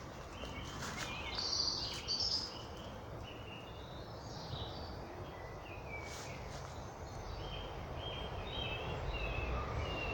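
Several small birds singing and chirping in woodland, with a low rumble underneath that grows louder near the end.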